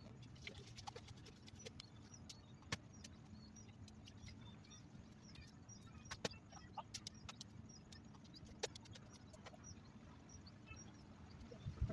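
Faint bird chirps, many short high calls, over a steady low hum, with scattered sharp clicks.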